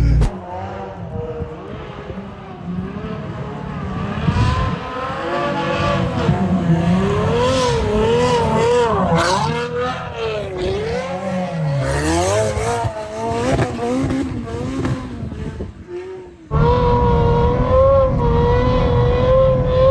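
Ferrari F12's V12 engine revving, its pitch swinging up and down repeatedly under throttle on snow. About sixteen seconds in, an abrupt cut gives way to a steadier, slightly wavering engine note.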